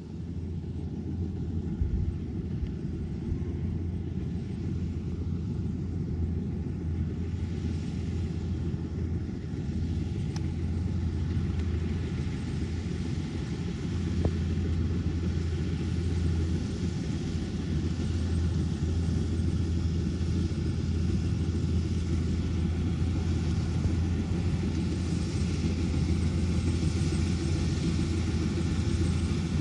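Kubota DC-105X combine harvester's diesel engine running steadily with a deep rumble, growing gradually louder.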